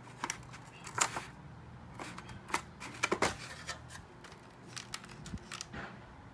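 Irregular small clicks, taps and scrapes of objects being handled, over a steady low hum in a small room.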